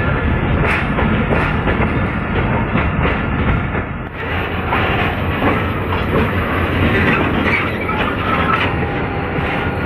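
Passenger train running along the track, heard from an open coach doorway: a steady heavy rumble with wheels clicking over rail joints. The sound dips briefly about four seconds in.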